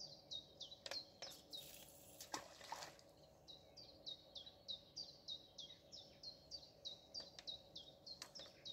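A small bird singing faintly, a long run of short, high notes that each slide downward, about three a second. A few sharp clicks about a second in and a brief rustle about two seconds in, over a faint steady hum.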